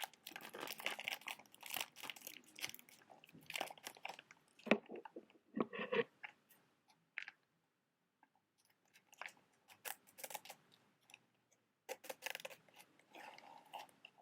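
Close-miked crackling and scratching from handling matches and their box, with a sharp thud about five seconds in, then a stretch of scattered light clicks before the crackling picks up again near the end.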